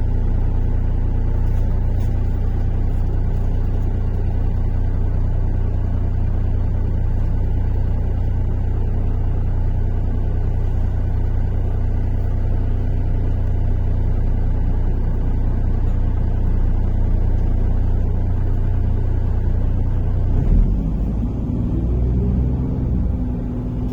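Interior of a MAZ-103.485 city bus on the move: a steady low engine and road rumble. About 20 seconds in there is a jolt, and then the engine note climbs in pitch as the bus accelerates.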